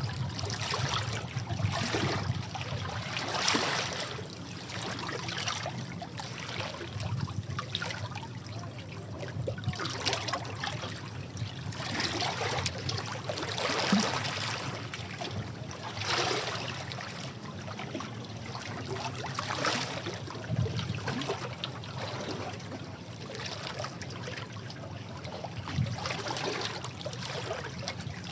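Sea waves washing and splashing over rocks, with uneven surges of spray every second or two over a constant wash of water.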